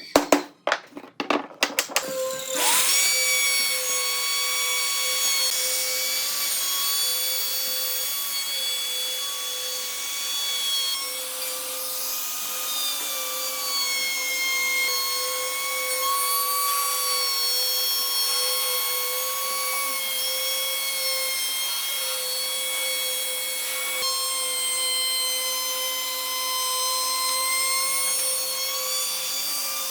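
A quick series of sharp knocks, then a handheld electric power tool's motor starts and runs with a steady whine that wavers slightly in pitch as it works wood.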